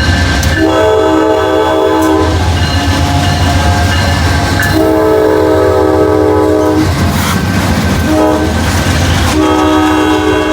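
Freight locomotive's multi-chime air horn blowing the grade-crossing signal: long, long, short, then a long blast that carries on. Underneath is the steady low rumble and rail clatter of the passing freight train.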